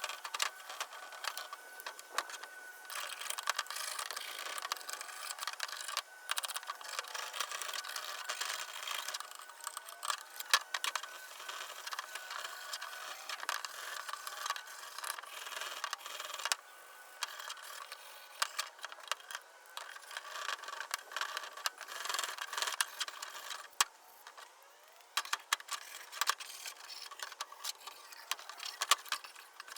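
Hand scraping and rubbing on the old can crusher's parts as it is cleaned up, broken by frequent clicks, rattles and knocks.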